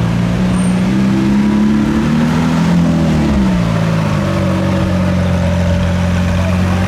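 A car engine running at low revs, rising in pitch briefly about two to three seconds in and dropping back to a steady low drone.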